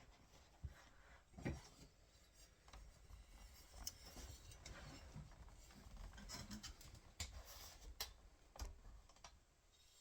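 Faint rubbing with scattered light clicks and knocks, the loudest knock about one and a half seconds in.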